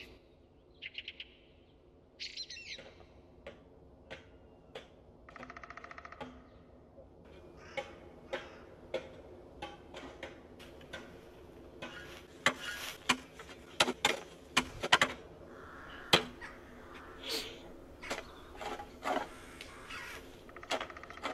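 Small birds chirping, a few short calls and a buzzing trill, then a shovel digging into the ground with many sharp strikes and scrapes, loudest in the middle stretch.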